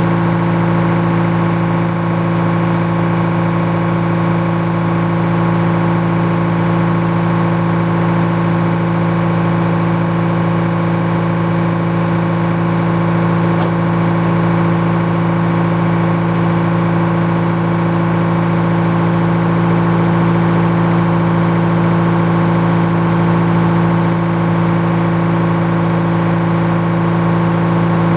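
Engine powering an old Frick sawmill, running at an unchanging steady speed with a constant hum.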